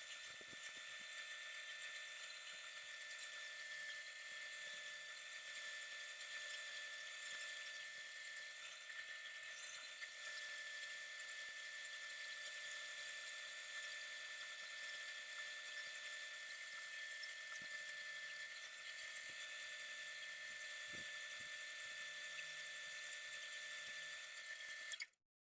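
A machine running steadily and faintly, a high-pitched whine over a hiss.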